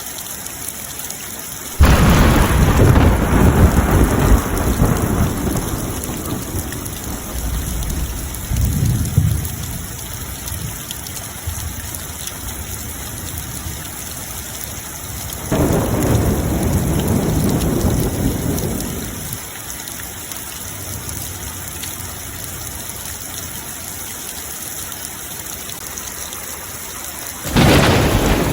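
Steady rain falling, with thunder rumbling in three loud peals that start suddenly, about two seconds in, in the middle, and near the end, and a softer rumble between the first two.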